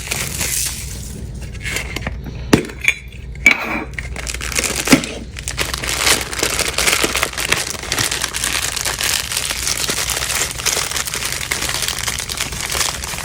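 Plastic packaging crinkling and tearing as a Funko Soda is unwrapped by hand. There are three sharp clicks or snaps between about two and five seconds in, then steady crackling.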